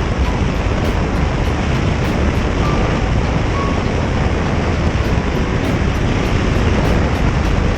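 Steady rush of wind and road noise from a motorcycle riding at speed, the wind buffeting the microphone.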